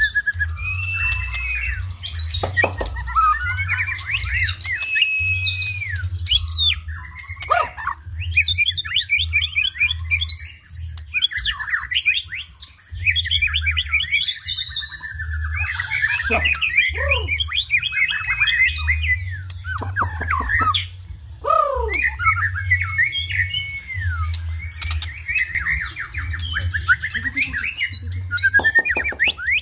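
White-rumped shama (murai batu) singing a long, varied song of clear whistles, rising and falling slides and rapid trills and chatters, over a low rumble.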